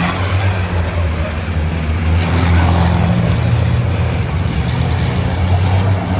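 Turbocharged diesel race truck engines running with a steady, loud low drone.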